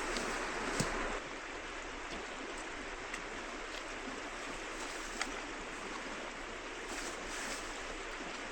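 Steady rush of flowing river water, a little louder for about the first second, with a few faint clicks over it.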